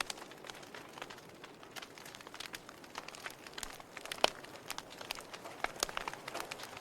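Fire crackling: irregular sharp pops and snaps over a faint steady hiss, with one louder pop about four seconds in.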